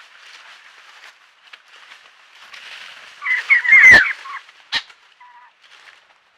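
Birds calling: a loud burst of harsh, gliding notes about three seconds in that lasts about a second, with a sharp thump in the middle of it. A click and a short rattle follow, over faint rustling and chatter.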